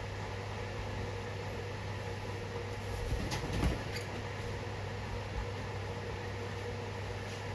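Akita sneezing, a quick pair of sharp sneezes about three seconds in, over a steady low hum.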